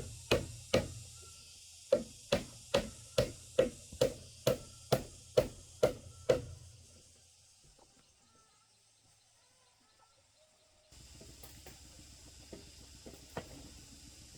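Repeated sharp blows of a hand tool, each with a short ring. Three come quickly, then after a short pause about a dozen more follow evenly at a little over two a second, ending about six seconds in.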